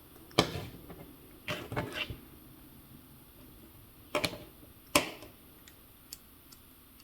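Clicks and clatter of small metal track parts (links and clips of an RC loader's track) being picked up and handled: a sharp click, a short run of clattering, then two more sharp clicks and a couple of faint ticks.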